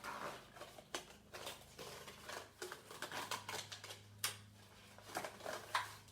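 Small irregular clicks and rustles of a cardboard egg carton and string being handled, as string is readied to thread through the carton's holes, over a faint steady low hum.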